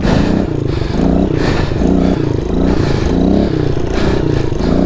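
Kawasaki KLX110's small four-stroke single-cylinder engine revving hard, its pitch climbing and dropping again and again about every half second as the throttle is worked.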